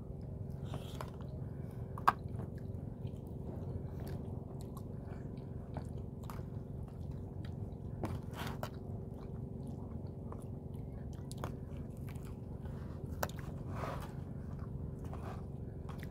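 People eating at a table: chewing, with scattered sharp clicks of cutlery on plates, the sharpest about two seconds in, over a steady low hum in the room.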